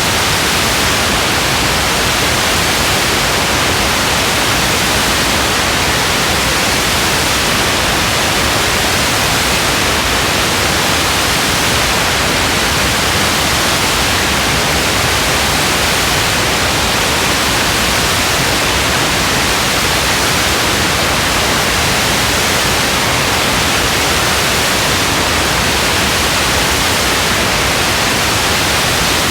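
Steady rain falling, heard as an even, unbroken hiss with no separate drops or thunder standing out.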